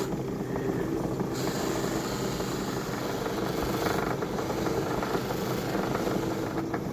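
Lapidary polishing wheel's motor running steadily while a stone cabochon is polished on the wheel, charged with a chrome polishing compound.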